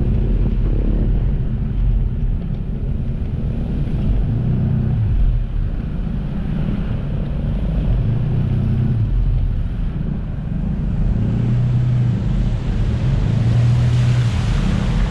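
A motor running with a steady low drone, its pitch rising and dipping a few times.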